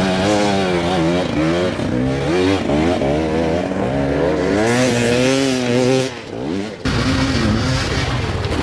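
Dirt bike engine revving, its pitch rising and falling with quick throttle blips. The sound drops out briefly about six seconds in, then picks up again.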